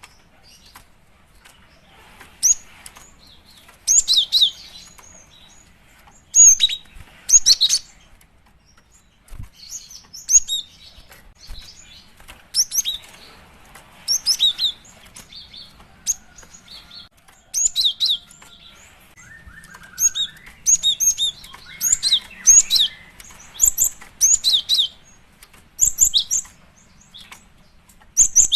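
Female cinereous tit (gelatik batu) calling: short bursts of a few high, quick, falling chirps, repeated about every one to two seconds. It is the call a female gives to draw a male.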